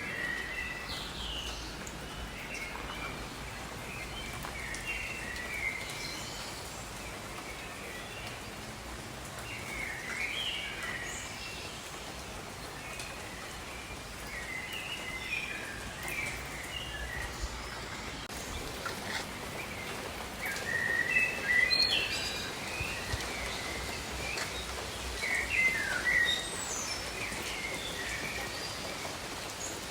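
Steady rain falling, with birds chirping and calling in short clusters over it; the bird calls are loudest about two-thirds of the way through and again near the end.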